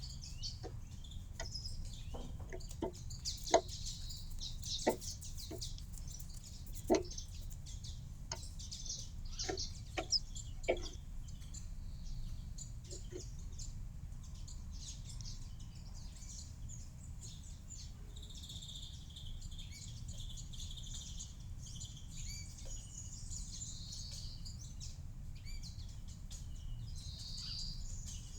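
Small garden birds chirping and twittering over a steady low rumble. About a dozen sharp taps sound irregularly through the first ten seconds or so, then stop.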